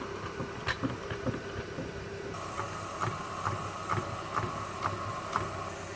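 Car jack being worked to raise the car, with evenly spaced clicks about two a second over a steady faint hum.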